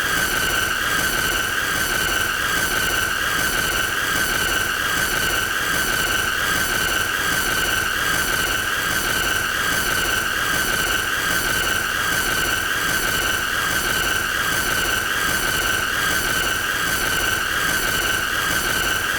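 A continuous, high-pitched squealing tone with overtones above it, held at one pitch over a rough, hissing background.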